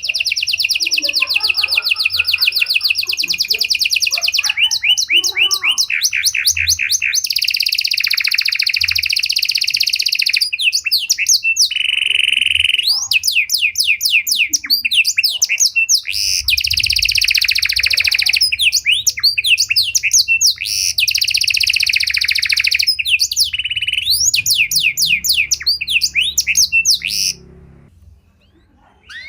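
Domestic canary singing a long, varied song of very fast trills and rolls and rapid sweeping notes, stopping near the end.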